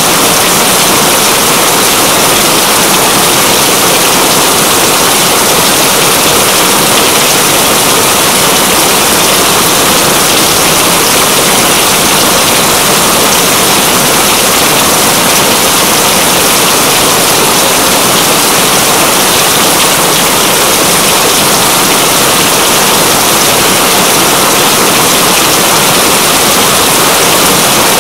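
Steady heavy rain: a loud, even hiss with no breaks or distinct drops.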